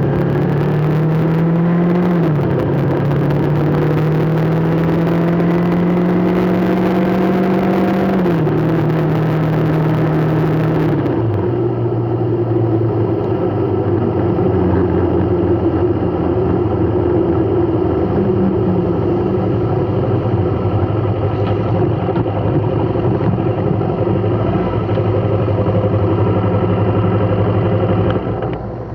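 A motor vehicle's engine pulling away through the gears: its pitch climbs, drops at each shift, about three times in the first eleven seconds, then the engine runs at an even speed.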